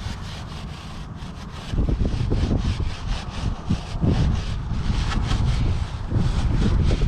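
A rag rubbing along a lubed motorcycle chain in quick repeated strokes, wiping off excess chain lube. From about two seconds in, a heavy low rumble on the microphone joins it.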